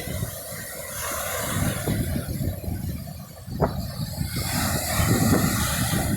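Low, uneven rumbling and hiss of wind buffeting the microphone, with one brief high chirp about halfway through.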